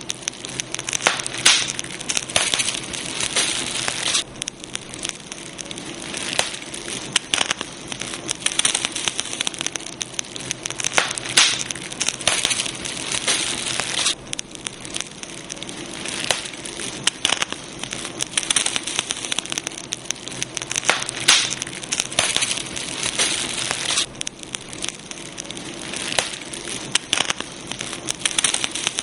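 Campfire burning, its wood crackling in dense, irregular snaps over a steady hiss.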